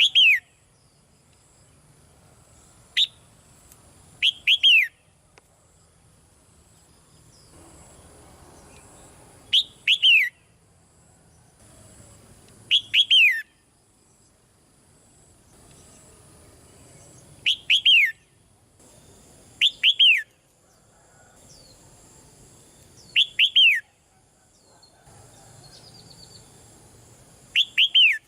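Red-whiskered bulbul calling: short, loud phrases of two or three quick falling notes, repeated every few seconds.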